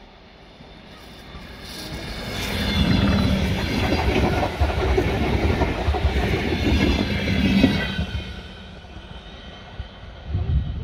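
Electric multiple-unit commuter train passing close by: the sound of its wheels on the rails builds up, holds loud for several seconds as the carriages go past, then fades as the train moves away.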